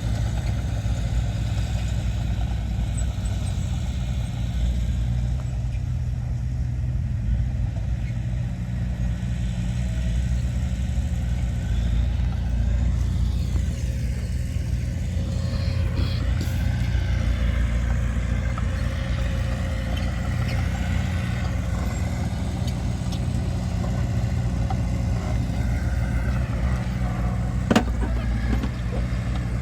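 Heavy diesel earthmoving machinery running steadily, with its engine note shifting up and down about halfway through and one sharp knock near the end.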